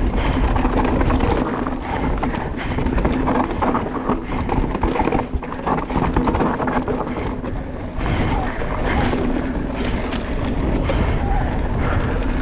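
Electric mountain bike riding a rough dirt trail: wind buffeting the microphone over tyres rolling on dirt and rock, with rattles and knocks from the bike's chain and suspension and a cluster of sharp knocks about nine to ten seconds in.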